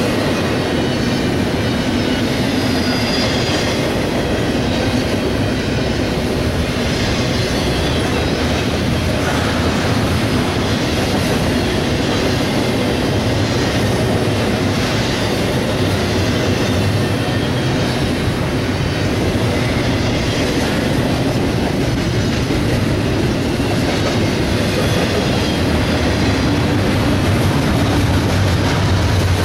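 Freight train rolling past close by at an even, loud level, its cars' wheels running over the rail without let-up.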